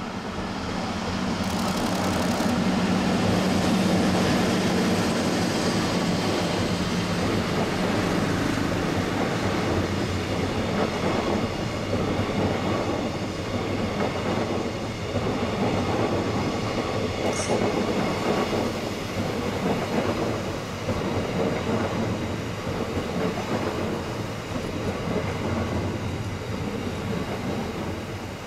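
JR East EF64 electric locomotive passing with a steady hum in the first few seconds, followed by the long string of unpowered E331 series cars it tows rolling by, their wheels clacking over the rail joints in a repeating rhythm. A brief high squeak sounds about halfway through.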